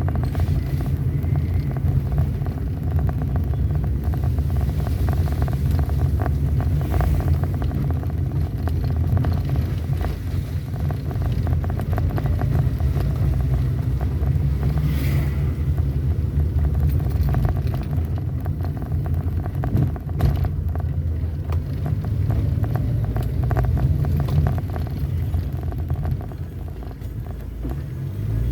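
Vehicle engine and road noise while driving, a steady low rumble, with one short knock about two-thirds of the way through.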